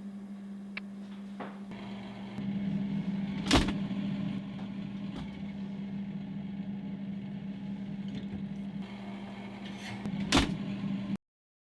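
A steady low hum with a loud knock about three and a half seconds in and another near the end, like a door being opened and then shut. The sound cuts off abruptly just before the end.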